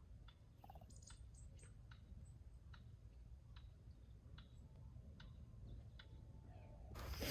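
Faint wood fire crackling, with sparse, irregular sharp pops over a low rumble; a louder burst of rushing noise starts near the end.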